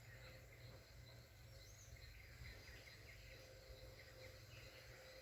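Near silence: faint outdoor ambience with a low steady rumble and scattered faint chirps of small wild creatures.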